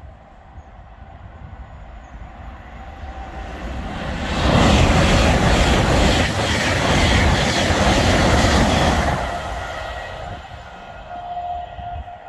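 LNER Class 800 Azuma high-speed train passing at speed. Wheel-on-rail and air noise rise over a few seconds, stay loud for about five seconds as the carriages go by, then fade away.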